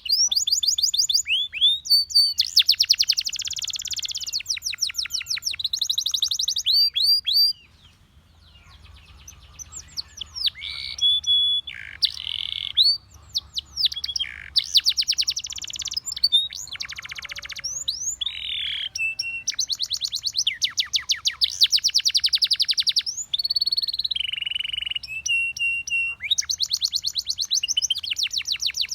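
Russian singing canary singing: long rapid trills of repeated high notes, quick downward-sweeping whistles and a few held tones. The song breaks off for a brief lull about eight seconds in, then resumes.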